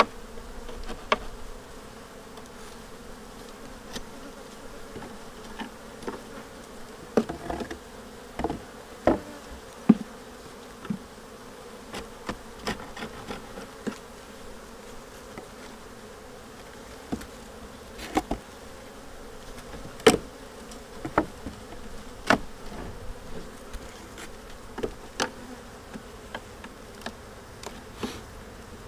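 Honeybees buzzing steadily around an open hive, with frequent sharp clicks and knocks of wooden frames and a hive tool being handled in the box.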